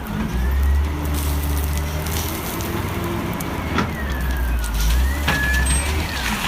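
Vehicle engine running with a loud low drone, under a thin high whine that glides up and down, with a few sharp clicks about four, five and six seconds in.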